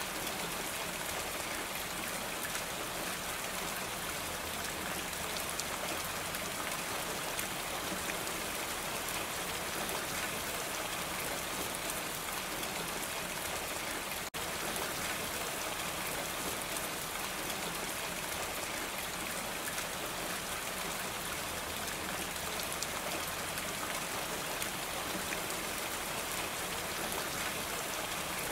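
Steady rain falling on a roof, a dense even patter of drops, with a split-second dropout about halfway through.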